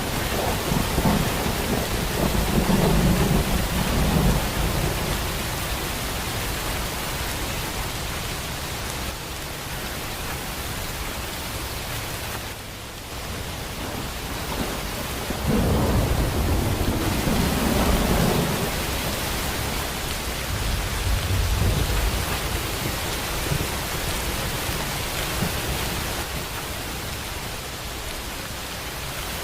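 Steady heavy rain hissing in a thunderstorm, with low thunder rumbling in several slow swells: near the start, in the middle and once more shortly after.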